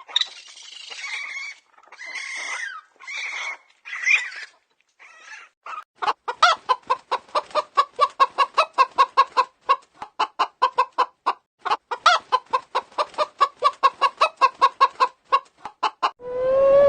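A chicken clucking in a fast, steady run of short notes, about four a second, for the last ten seconds. Before that come five harsher, hoarse calls.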